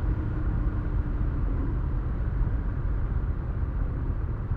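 Honda Rebel 1100 motorcycle's parallel-twin engine running steadily while riding along, with a constant low rumble.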